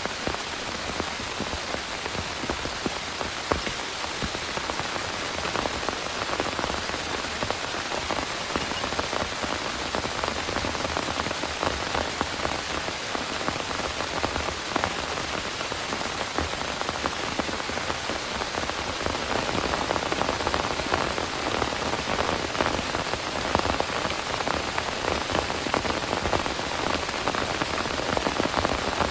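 Heavy rain falling steadily, with many close drop impacts on a surface. It grows a little louder about two-thirds of the way through.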